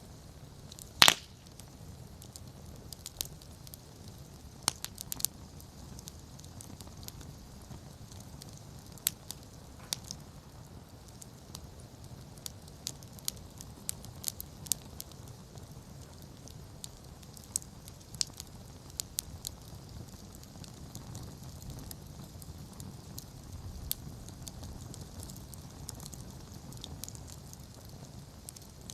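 Wood campfire burning: a steady low rumble of flames with scattered sharp crackles and pops, the loudest pop about a second in.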